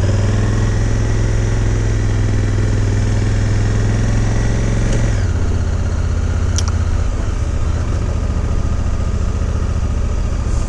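Honda Africa Twin's parallel-twin engine running steadily as the motorcycle rides along. Its note drops about five seconds in, and there is a single sharp click shortly after.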